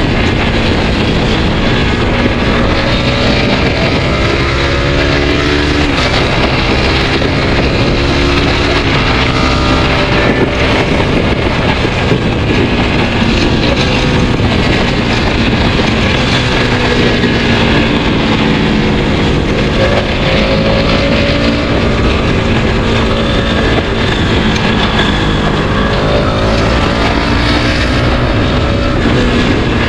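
Suzuki Satria F150 FI's single-cylinder four-stroke engine heard from on the bike while riding, its note rising through the revs and dropping at each quick-shifter upshift, several times over.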